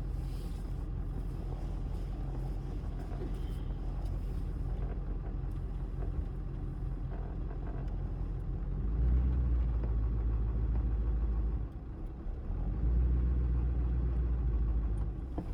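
Engine and road rumble of a moving vehicle heard from inside the cabin, a steady low drone that grows louder about nine seconds in, dips briefly a little before twelve seconds, then rises again.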